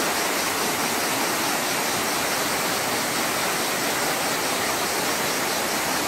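Small waterfall pouring into a natural rock pool: a steady rush of falling water.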